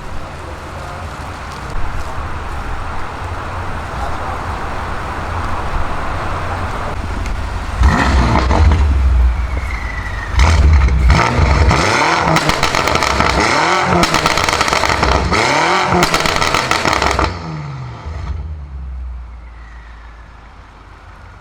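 Tuned BMW M5 F90 twin-turbo V8 with an aftermarket exhaust, running with a low rumble, then loud for about nine seconds as the revs rise and fall repeatedly. It drops off sharply and fades away near the end.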